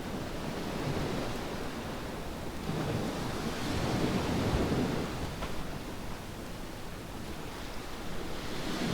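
Ocean waves breaking and washing up a beach, a steady rush that swells to a peak a few seconds in and builds again near the end.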